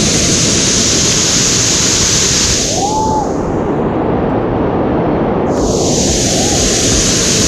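Waterfall's rushing water, loud and steady.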